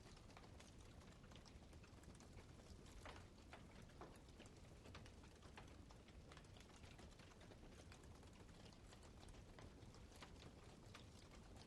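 Wood campfire crackling quietly, with frequent small, irregular pops and snaps.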